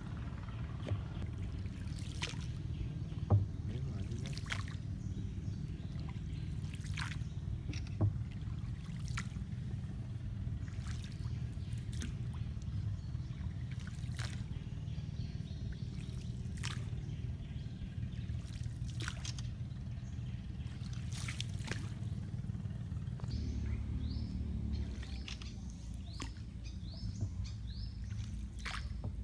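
Water dripping and splashing off a rowboat's paddle, a short splash every second or two, over a steady low rumble. Near the end, birds give quick, rising chirps.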